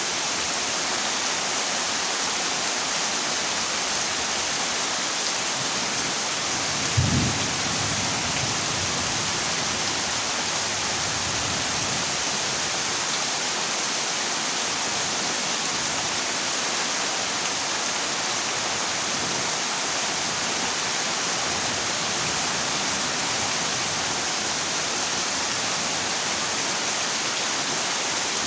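Heavy rain falling steadily on a corrugated zinc roof, an even hiss. About seven seconds in, a short low rumble of thunder rises over the rain.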